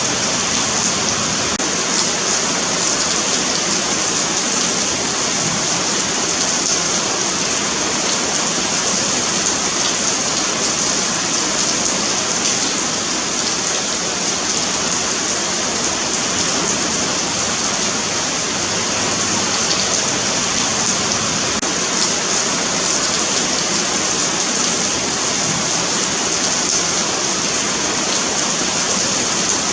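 Steady rain falling on a paved sidewalk: a dense, even hiss of drops spattering on the pavement, with no let-up.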